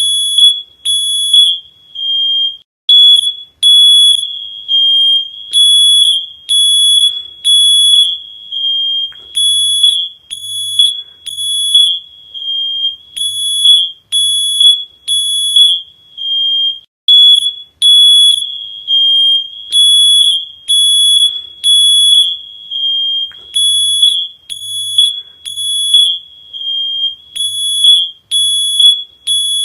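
A high-pitched electronic alarm beeping loudly, about one beep a second, with some beeps held longer so that they run together.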